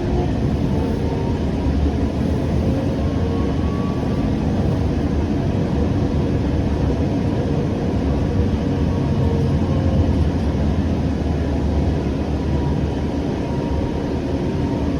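Siemens S700 light rail car running along the track, heard from inside: a steady rumble of wheels and running gear with a faint motor whine that slowly shifts in pitch.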